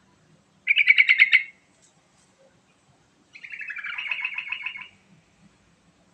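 Yellow-vented bulbul (trucukan) singing: a short, rapid bubbling phrase about a second in, then a longer chattering phrase in the middle.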